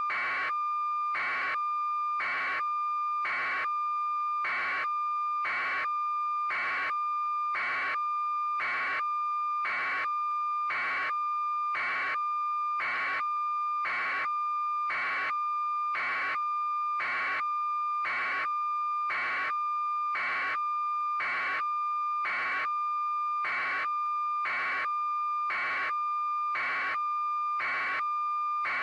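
Electronic beeping, a short pulse about once a second, over a steady high-pitched tone; clean and unchanging throughout.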